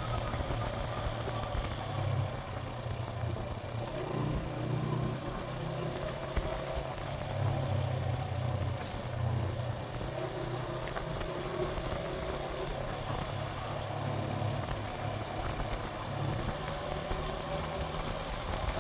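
Suzuki GN125 single-cylinder four-stroke motorcycle engine running at a fairly steady pitch while riding, over a steady hiss.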